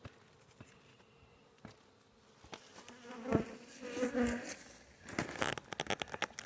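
Honeybees flying close past the microphone, their buzzes coming and going from about two and a half seconds in. Near the end there is a quick run of clicks and taps.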